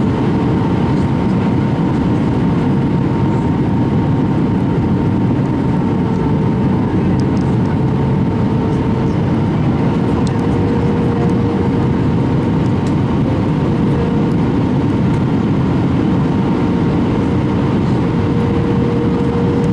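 Steady cabin noise of an Airbus A319 airliner in flight: a low, even roar of engines and airflow with a faint steady hum on top.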